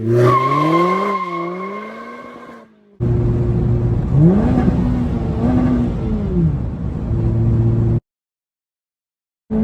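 Mazda MX-5 ND with a bolt-on aftermarket exhaust: the engine revs drop away in the first couple of seconds, then it idles and gets two quick throttle blips, the exhaust note rising and falling each time. The sound cuts off suddenly about eight seconds in.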